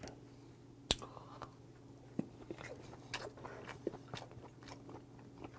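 Close-up mouth sounds of a person chewing raw yellowtail sashimi: soft, wet clicks of chewing scattered through, with one sharper click about a second in.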